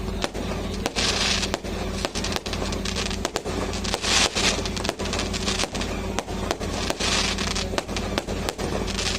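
Fireworks and firecrackers going off: irregular sharp bangs several a second, with bursts of crackling about every three seconds, over a steady low hum.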